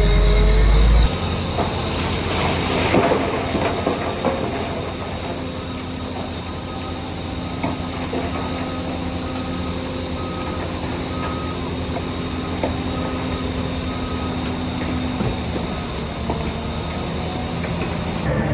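Heavy earthmoving machinery, a bulldozer and dump trucks, running with a steady engine drone and clatter. A heavy low rumble drops away about a second in. A short high beep repeats for several seconds around the middle.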